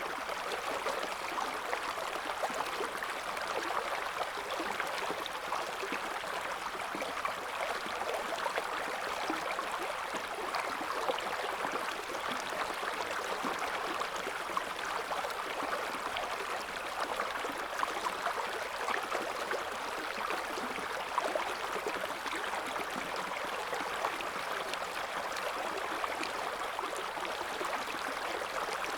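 River water flowing over rocks: a steady rushing and babbling of shallow current with small splashes and gurgles.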